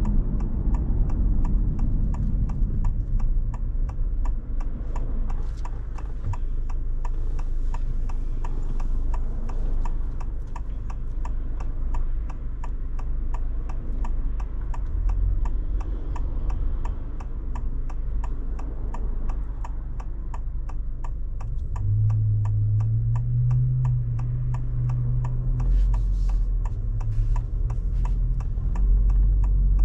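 Turn-signal indicator ticking at an even rate inside a car cabin, over the low rumble of the car in traffic.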